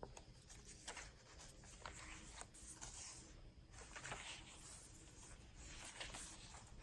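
Faint rustling and soft clicks of paper as a handmade journal's pages, envelopes and pockets are handled and turned.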